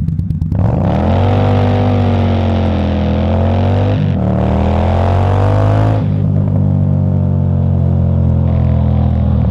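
Indian Scout Bobber's V-twin engine pulling away hard: the revs climb about half a second in, dip briefly at a gear change near four seconds, then settle to a steady lower note from about six seconds.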